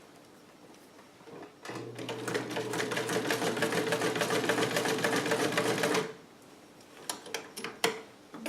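Vintage Sovereign electric sewing machine running: the motor hums under a rapid, even patter of needle strokes for about four seconds, then stops abruptly. A few light clicks follow near the end.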